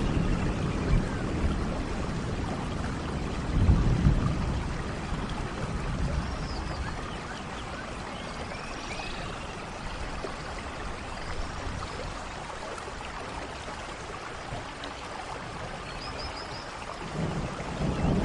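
Steady rain falling, with low rumbles of thunder at the start, about four seconds in, and again near the end. A few faint high chirps come through the rain now and then.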